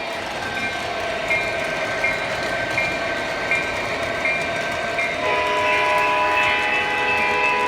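Model train running on its track, with a short high tone repeating about every two-thirds of a second; about five seconds in, a multi-note horn starts and is held.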